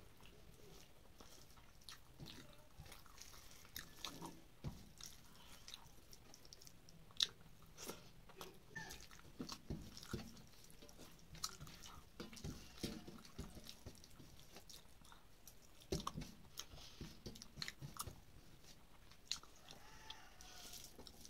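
Quiet, close-up chewing and mouth sounds of a person eating rice and potato-chop curry by hand, with soft clicks and smacks scattered throughout. Fingers mix the rice on a metal plate between mouthfuls.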